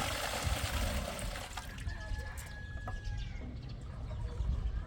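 Water splashing, the noise fading out over the first second or so. A thin, steady, high whistle-like call is held for about a second and a half near the middle, and a low rumble of wind on the microphone runs underneath.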